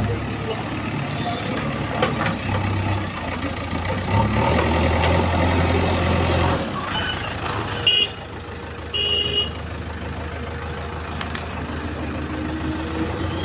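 Diesel engines of a JCB 3DX backhoe loader and a dump truck running under load, the engine note rising for a couple of seconds about four seconds in. A short high-pitched toot sounds about eight seconds in, and another about a second later.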